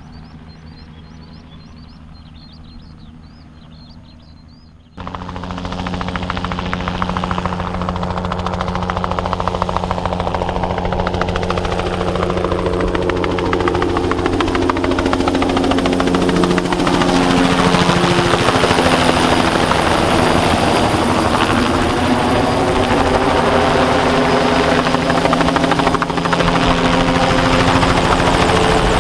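Bell 206B-3 JetRanger III helicopter, its turbine engine and rotors running. It is faint at first under high repeated chirps, then loud abruptly about five seconds in as it flies a low spraying pass close by. Its pitch drops partway through as it goes past.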